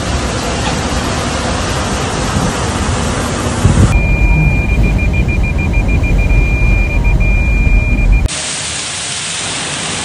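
Storm noise from heavy rain and flood water, in three cut-together clips: a steady rush, then from about four seconds in a louder deep rumble with a thin, steady high beep over it, then from about eight seconds in a lighter, even hiss of rain.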